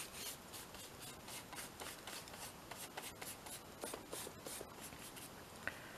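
Faint, repeated rubbing strokes of a tool working over a paper journal page, a few strokes a second, thinning out into scattered light ticks and scrapes in the second half.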